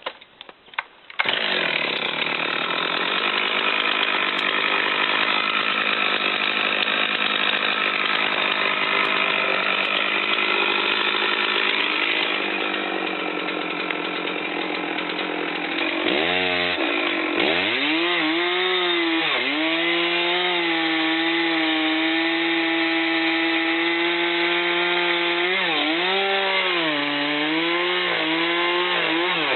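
Chainsaw coming in at full throttle about a second in, cutting deeper into a felling cut on a large tree that has not yet fallen. About halfway through, its engine note dips sharply and recovers. It then holds a steady high pitch, with brief dips near the end.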